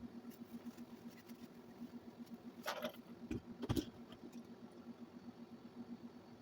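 Motor of a 1965 Record-O-Fone answering machine running with a low hum that pulses rapidly and evenly, the tape drive being tested with its freshly cleaned rubber roller. A few handling knocks and a short scrape come about halfway through.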